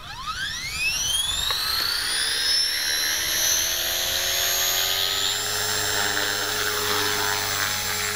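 450-size electric RC helicopter spooling up, heard from a camera mounted on it: the motor and gear whine rises steeply in pitch over the first two to three seconds, then holds steady at flying head speed.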